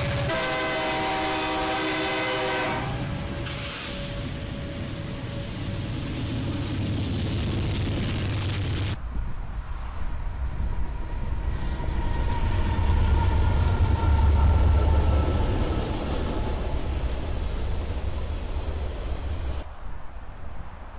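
A freight locomotive's air horn sounds a chord for about three seconds, then BNSF diesel locomotives rumble past. After a cut, another BNSF freight's diesel locomotives approach with a deep engine rumble that swells past the middle and eases toward the end.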